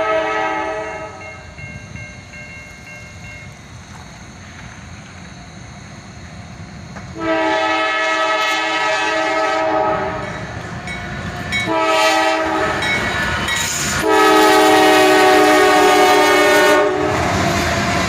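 Multi-tone horn of an approaching CSX freight train's lead locomotive, a CM44AC rebuild, sounding the grade-crossing pattern: the end of one long blast, then a long, a short, and a final long, louder blast about three seconds long. After the horn stops, the rumble of the passing train takes over.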